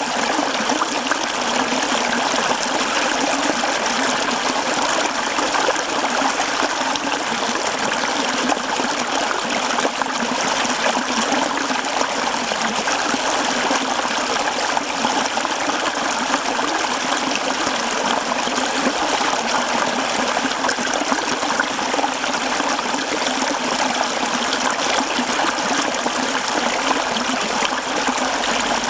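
Mountain stream running over rocks: a steady, even rush and babble of flowing water.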